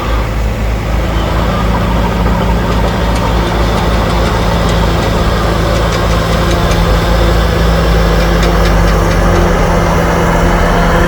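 Heavy diesel engine of earthmoving machinery running steadily and loudly, with a low, even drone and scattered faint clicks.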